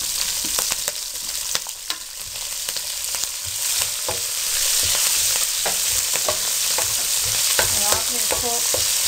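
Chopped green chillies, cumin seeds and bay leaves sizzling in hot oil in an aluminium karahi, stirred with a wooden spoon that scrapes and knocks against the pan. The sizzle grows louder about halfway through.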